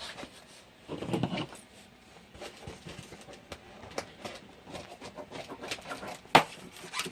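Handling noise from unpacking a boxed foam RC airplane: scattered clicks, taps and rustles of parts and packaging being moved and set down, with a sharp knock about six and a half seconds in.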